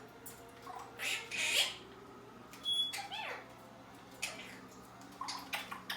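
Pet parrots, a Quaker parrot and an African grey, calling: harsh squawks about a second in, then a short high whistle and several short calls that rise and fall in pitch.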